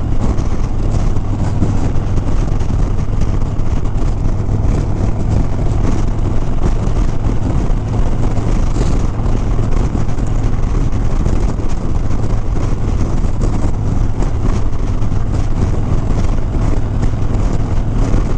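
Harley-Davidson Sport Glide's V-twin engine running steadily at cruising speed, with wind rush over the rider's microphone.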